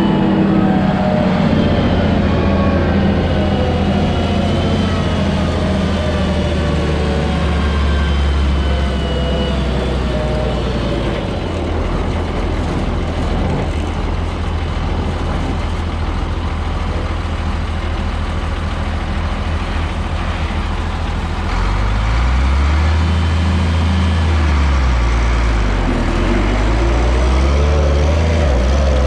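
Diesel tractor engine running under steady load, its pitch shifting about a third of the way in and rising and falling a few times near the end as the engine speed changes.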